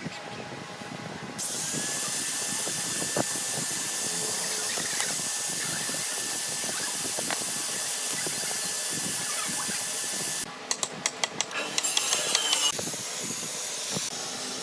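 A steady high hiss starts about a second and a half in and cuts off suddenly after about nine seconds. A quick run of sharp clicks and ticks follows it.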